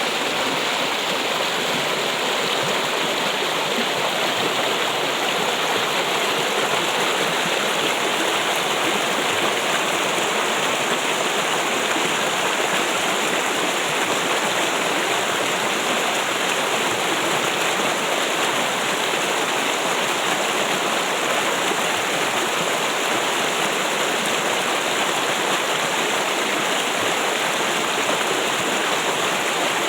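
Flowing water trickling and splashing steadily, an even stream-like rush with no pauses.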